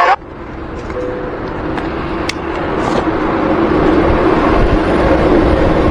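Road traffic noise that builds steadily louder, with a faint low hum running through it.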